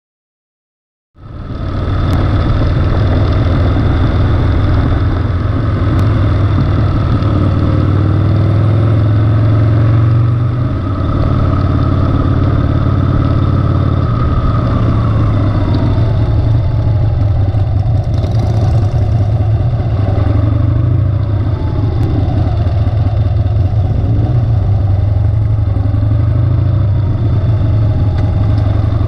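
Harley-Davidson Sportster's V-twin engine running under way, heard from a camera on the bike, starting about a second in. The engine note is steady, easing and dipping a few times around the middle as the bike slows and picks up along the lane.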